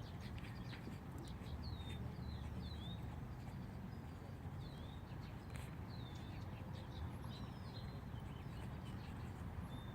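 Small birds calling with short, high chirps, a few each second, over a steady low rumble.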